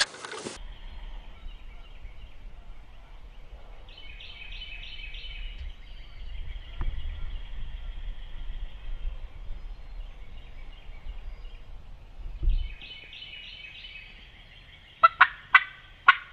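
A bird's rapid, rattling call, heard twice, each about a second long, over a steady low rumble. Near the end come four sharp, loud clicks or knocks in quick succession.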